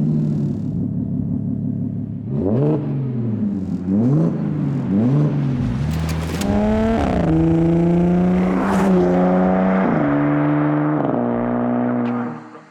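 Audi S4 B8.5's supercharged 3.0 TFSI V6 through a Scorpion Predator stainless exhaust with the rear silencers deleted, idling and then revved in three short blips. A longer rev follows that holds higher and falls back in several steps before dying away near the end.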